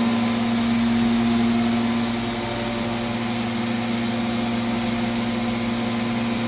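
Mazak VTC20C CNC vertical machining centre running: a steady machine hum with several constant tones over a hiss, easing slightly in level about two seconds in.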